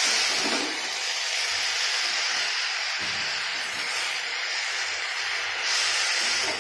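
Spinach and vegetables sizzling in a steel karai over a gas flame while a metal spatula stirs them, a steady frying hiss that eases about a second in and swells again near the end.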